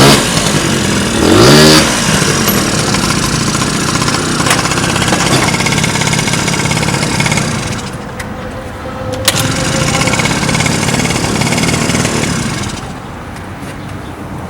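Honda Dio ZX scooter's small two-stroke engine running on its freshly fitted cylinder and reed valve, revving up and back down about a second and a half in. The engine note eases off around eight seconds, picks up again, and falls away near the end.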